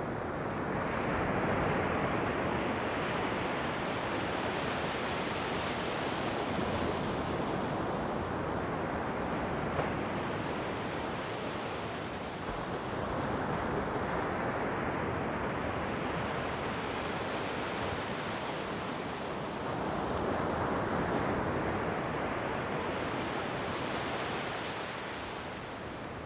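Ocean waves surging on the shore, a steady rushing hiss that grows brighter and falls back about three times, one wave every eight to ten seconds.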